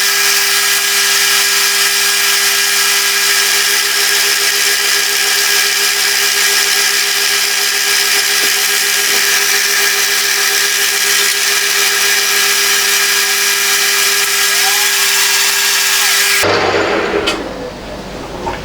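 Milling machine running steadily with a fly cutter taking a light cut of about half a millimetre off a block, then shutting off about sixteen seconds in.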